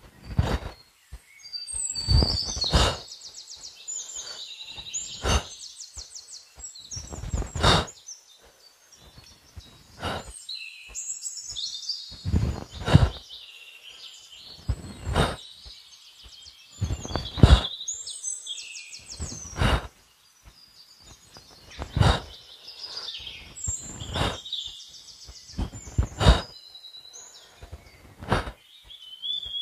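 Forest birds singing, with phrases of fast repeated trill notes. A short rushing burst, the loudest sound, comes every two seconds or so.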